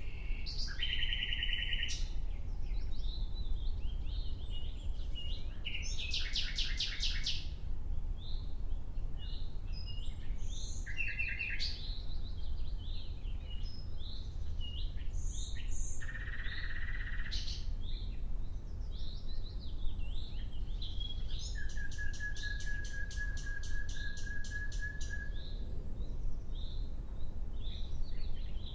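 Nightingale singing: separate phrases of fast rattling trills with short chirps between them, and one long level whistled note a little past the middle, over a steady low rumble.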